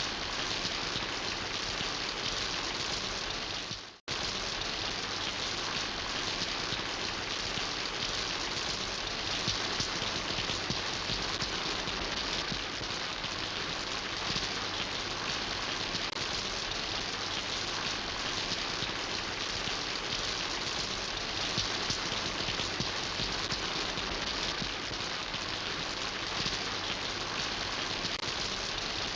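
Steady rain falling, an even hiss of drops. About four seconds in the sound fades out to a momentary gap and cuts straight back in.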